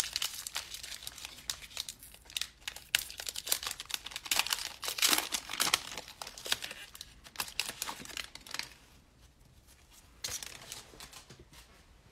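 A trading card pack wrapper crinkling and being torn open, with the cards inside handled. The crackling is busiest for the first two-thirds and thins out near the end.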